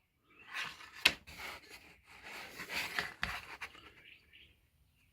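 Ruler and pencil being handled against a pine board: scraping and rubbing on the wood, with a sharp click about a second in and a dull knock a little after three seconds.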